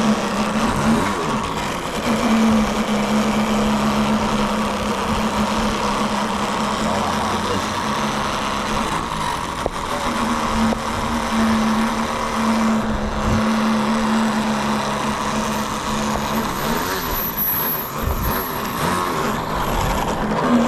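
Radio-controlled model airplane engine running at a steady pitch that drops out and returns, with passes where the pitch rises and falls about a second in and again near the end. The engine's low end is running too lean.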